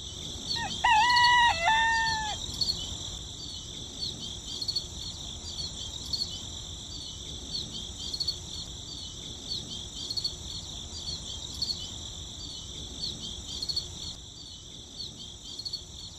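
A rooster crows once, from about half a second in until about two and a half seconds, over steady, rhythmic insect chirping.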